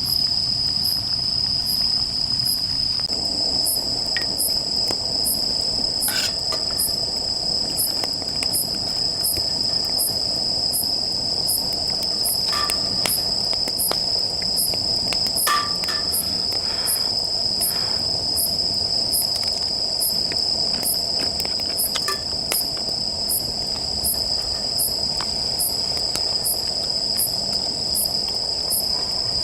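Grass insects trilling steadily, one high-pitched chirp repeating about once a second over the top. A wood fire in a fire pit crackles, with a few sharp pops scattered through.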